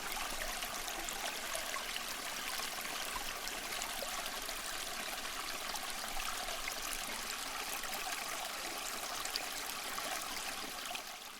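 Water trickling steadily in a small tabletop fountain, fading out at the very end.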